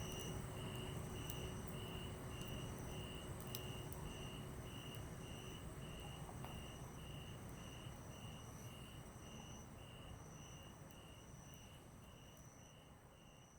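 Crickets chirping at about two chirps a second over a steady, high insect trill, with a few faint crackles from a wood campfire. The whole sound fades out gradually.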